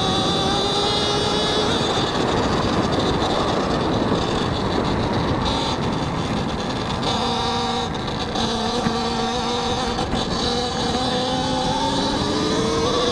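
Talaria X3 electric dirt bike's motor whining under way over a steady rushing noise, the whine rising in pitch at the start and again near the end as the bike speeds up, and holding steady in between.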